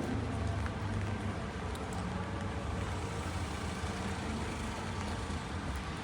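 A motor vehicle's engine running as a low, steady rumble that eases off slightly, over an even hiss of rain.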